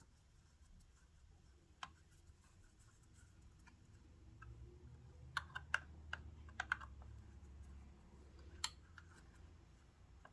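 Faint scattered clicks and taps of a screw and tool against the small metal parts of a sewing machine's mechanism, with a short cluster of sharper clicks in the middle.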